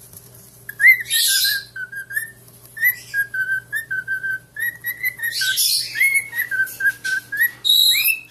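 Pet parrot whistling a run of short, clear notes, each starting with a quick upward flick, with a few harsh raspy bursts mixed in.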